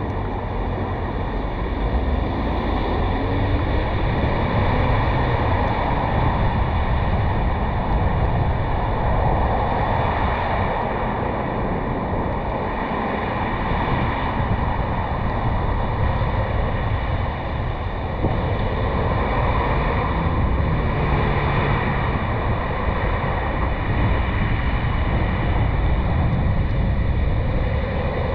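Steady wind and road noise of a Chevrolet Malibu driving, picked up by a camera mounted on its roof, with wind buffeting the microphone.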